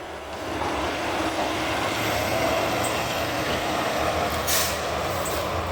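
Garbage truck driving by, its engine and road noise a steady rush that swells about half a second in, with a short hiss of the air brakes about four and a half seconds in.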